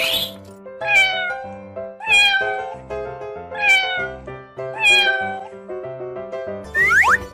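Four cat meows, each falling in pitch, a second or so apart, over bouncy children's background music; two quick rising whistle-like glides near the end.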